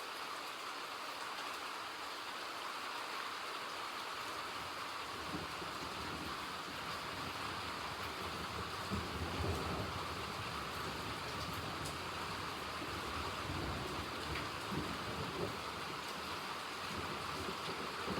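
Steady rain falling, an even hiss of drops. A low rumble builds about a third of the way in, swells near the middle and dies away before the end.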